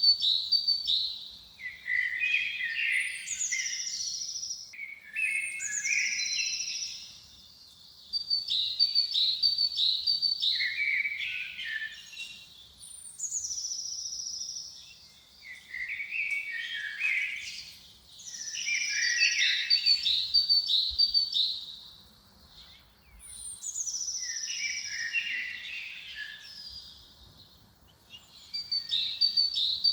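Songbird singing the same phrase over and over, with short pauses between phrases: quick high chirps, a high falling whistle and lower warbled notes.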